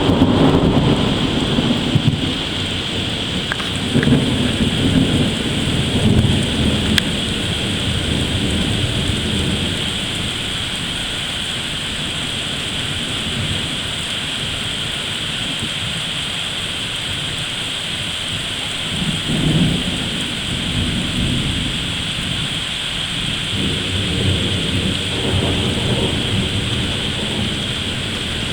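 Thunderstorm: steady rain hissing throughout, with low rolls of thunder that swell and fade several times, near the start, around four to six seconds in, at about twenty seconds and again a few seconds later.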